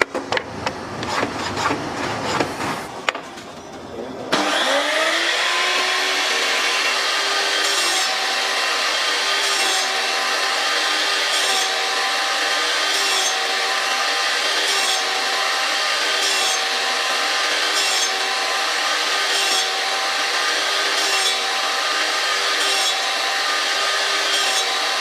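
Table saw: a few knocks and clicks, then about four seconds in the motor spins up, its hum rising and settling into a steady tone. The saw keeps running while cutting wood, with a short sharper cutting noise about every second and a half.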